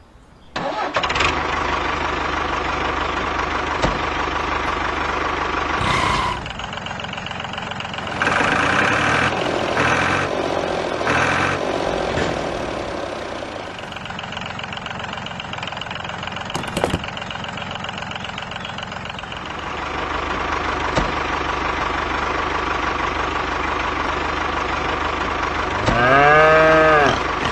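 Steady engine-like running with a constant hum that shifts in character a few times. Near the end there is a short rising-and-falling call.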